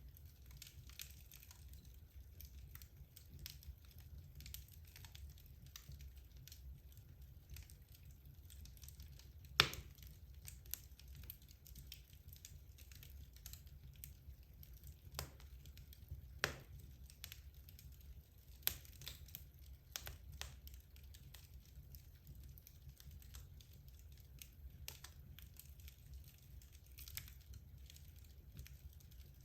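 Wood logs burning in a fireplace, crackling steadily with frequent small snaps and a few louder pops, over a low rumble of the fire.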